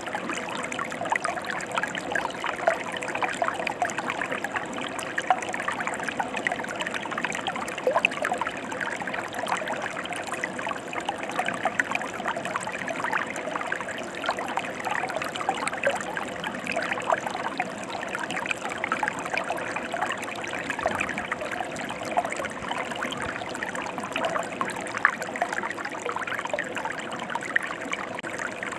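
Mountain stream flowing over rocks: a steady rush of water, dense with small splashes and bubbling.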